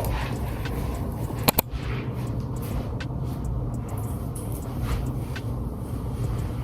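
A steady low rumble, with two sharp clicks close together about a second and a half in and a few faint ticks after.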